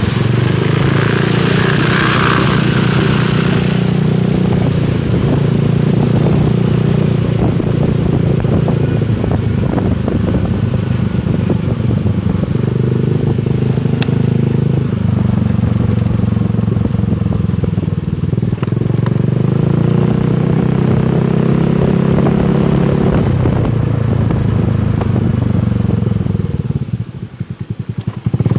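Honda Spacy scooter's single-cylinder engine running through an aftermarket Nob1 exhaust while riding, at a fairly steady throttle. Near the end the note drops off briefly and stutters, as on closing the throttle, then picks up again.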